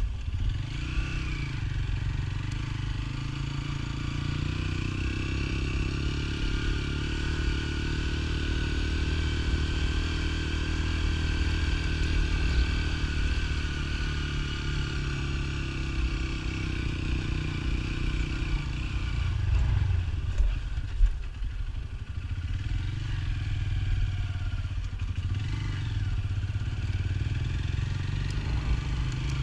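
Motorcycle engine running steadily on the move, with the engine note dropping and picking up again about twenty seconds in.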